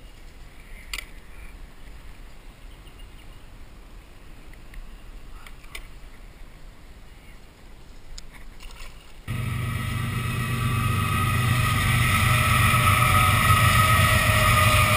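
Noisy freight train passing: a loud, steady rumble with a low hum that cuts in suddenly about nine seconds in. Before it there are only a few faint clicks over quiet background.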